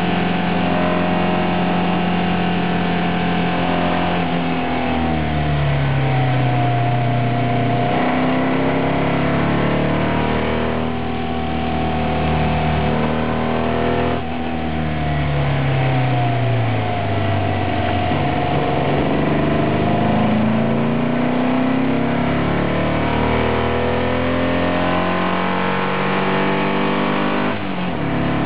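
VW engine of a racing special at full load on track, its pitch falling twice as the driver lifts and brakes for corners, then climbing again as it accelerates hard, with a quick gear change near the end.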